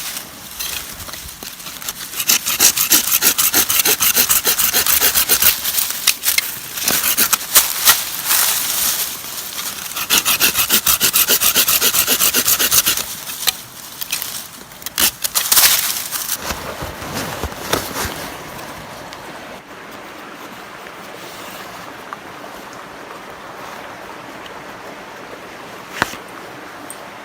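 Wood being sawn by hand in rapid back-and-forth strokes, in three spells with short breaks. The sawing stops, and from about two-thirds of the way through only a steady, fainter outdoor hiss remains.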